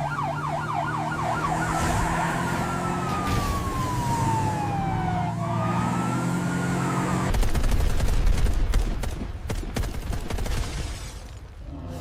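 Police car siren over background music: a fast yelp for the first second or so, then a long slow falling wail and a shorter rising one. Both siren and music cut off about seven seconds in, giving way to a loud rushing noise full of crackles that fades near the end.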